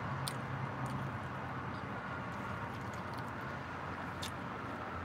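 Chewing on a chicken drumstick, with a few short, sharp mouth smacks, over a steady low hum.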